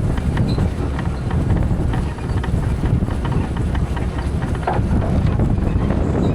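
Tractor running steadily while pulling a land roller across a field, with scattered light knocks and rattles, and wind buffeting the microphone.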